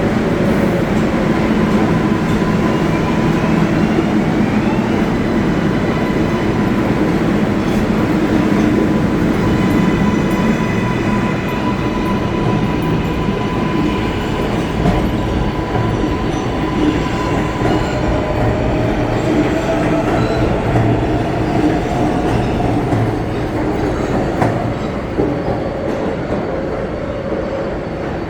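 New York City Subway 7 train moving through a station: a continuous loud rumble of steel wheels on rail with a steady high whine. Near the end a tone rises in pitch.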